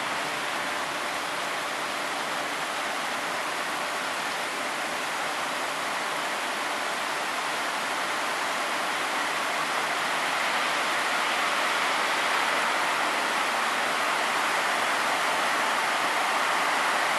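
Heavy rain falling steadily, a dense even hiss that grows a little louder about ten seconds in.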